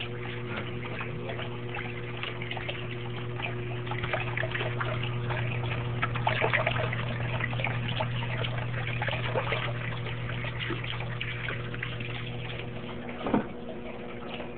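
Garbage disposal motor running with a steady hum while water splashes and gurgles as it is pumped from one sink basin up through the other basin's drain, because the shared drain is clogged with coffee grounds. The hum stops with a short knock near the end.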